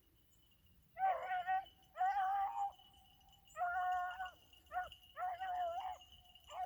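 A beagle baying while running a rabbit's track: about six drawn-out bays in a row starting about a second in, each with a steady, held pitch.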